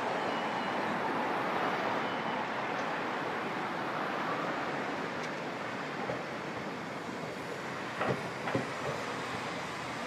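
Iyo Railway Gunchu Line electric train running on the track, a steady rolling noise, with a few sharp clicks near the end.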